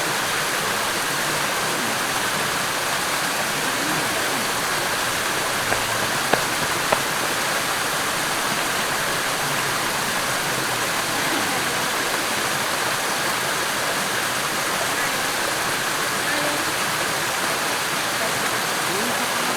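Steady rush of a mountain stream's flowing water, with three sharp little clicks about six to seven seconds in.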